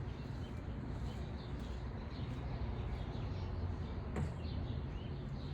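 Outdoor background noise: a steady low rumble with faint short bird chirps, and a single sharp click about four seconds in.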